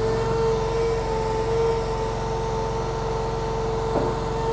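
Compact stand-on skid steer idling, its engine running steadily under a constant high-pitched whine that holds one pitch.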